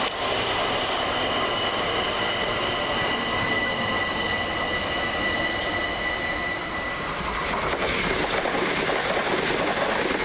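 A London Overground Class 378 electric train at the platform, giving a steady high whine of several tones over a running rumble. The whine fades out about seven seconds in, and the rumble then grows louder.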